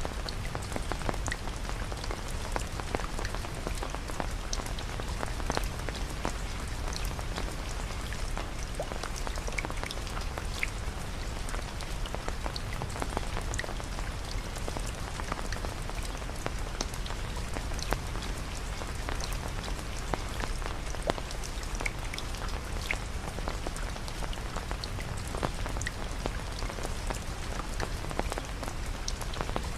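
Steady rain falling, an even hiss with many separate drops tapping.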